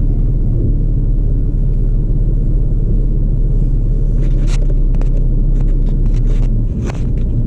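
Steady low rumble of a vehicle driving, with a few sharp clicks in the second half.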